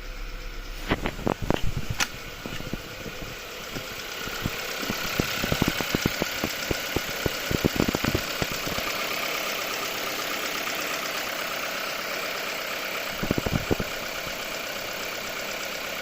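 Volkswagen Golf Mk7 engine running steadily, with clusters of sharp irregular knocks and clicks about a second in, again from about five to nine seconds, and once more near the end.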